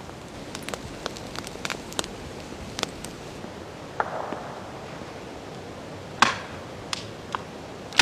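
Steady rain hiss with scattered light ticks and knocks, a dull thud about four seconds in and one loud sharp crack about six seconds in.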